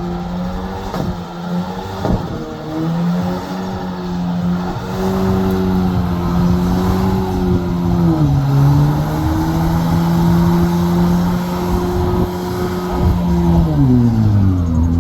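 A truck engine held at high revs, its pitch dipping briefly about eight seconds in, climbing back, then dropping off near the end.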